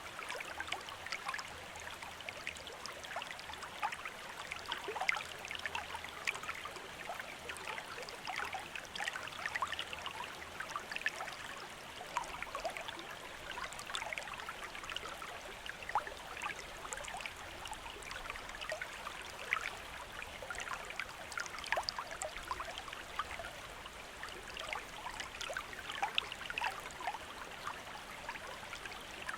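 Shallow stream water running steadily over stones, a constant bubbling and trickling with many small splashes.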